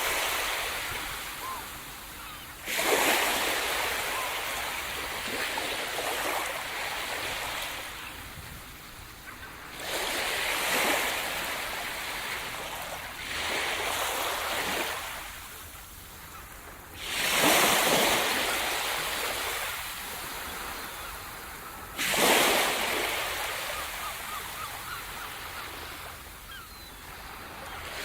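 Sea surf breaking on a shore: five waves crash in turn, each a sudden rush of water that fades into a long hiss as it washes back.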